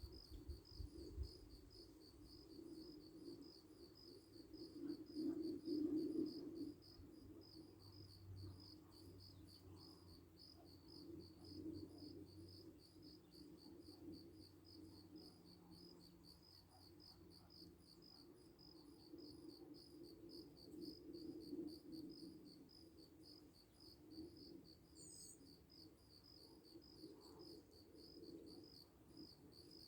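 Crickets chirping faintly and steadily in an even, high-pitched pulsing rhythm.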